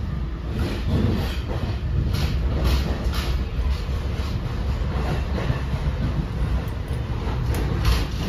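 Inside an NJ Transit MultiLevel coach at speed: a steady low rumble of the wheels on the rails, broken by several irregular sharp clacks from the track.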